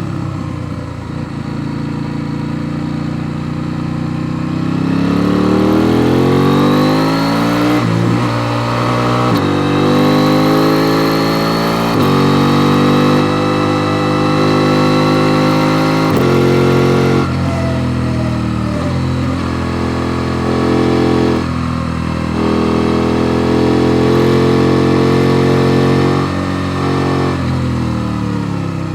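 KTM Duke 890 R's parallel-twin engine pulling under way. Its pitch climbs steadily about five seconds in, then moves in sudden steps and brief dips as the throttle and gears change.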